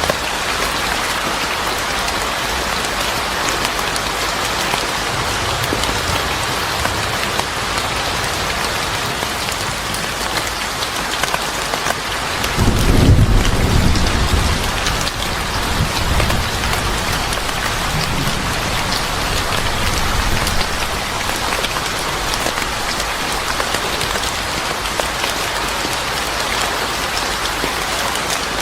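Steady rain falling, with a low roll of thunder swelling up about halfway through and fading over a couple of seconds, and fainter distant rumbles before and after it.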